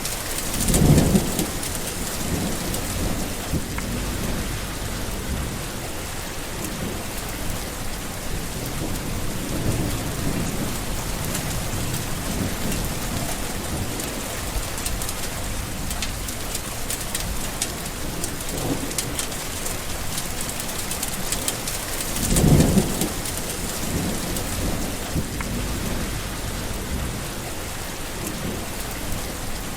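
Steady rain falling through a thunderstorm, with low rolls of thunder coming and going. The strongest rumbles come about a second in and about two-thirds of the way through.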